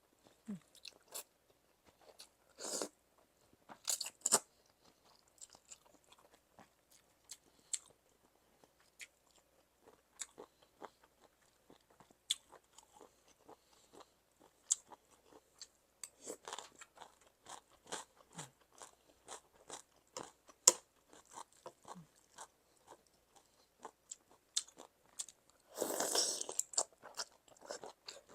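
Close-up eating of a Thai pounded cucumber salad with seafood: crunchy bites and chewing with many small wet mouth clicks, and a few louder crunches at about three and four seconds in and near the end.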